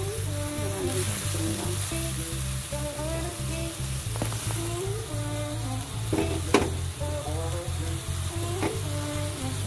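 Chicken, carrots and oil sizzling in a metal wok, with a few sharp clicks as slices of sponge gourd (patola) are added to the pan. Background music with a steady beat plays throughout.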